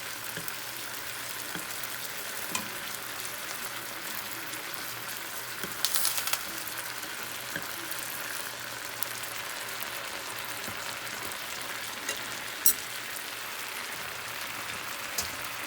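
Thinly sliced chicken frying in a pan: a steady sizzle with scattered pops, a short burst of crackling about six seconds in and one sharp pop near the end.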